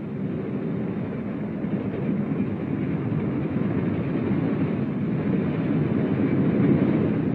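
Steady running noise of a moving freight train on the rails, growing a little louder near the end.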